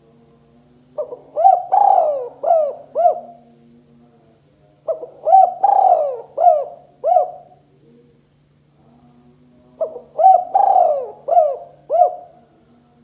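Spotted dove cooing: three phrases of about five or six quick coos each, a few seconds apart.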